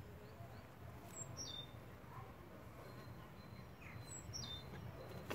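A small bird twice gives a short call of a few high notes stepping down in pitch, about three seconds apart, over a steady low background rumble.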